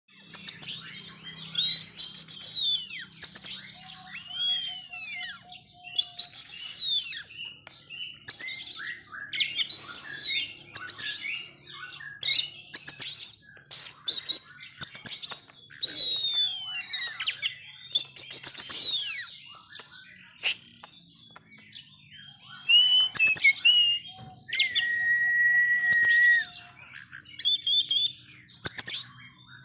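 Oriental magpie-robin (kacer) in full, aggressive song: fast, varied phrases of sweeping whistles, chirps and rasping notes packed closely together, with one long held whistle near the end.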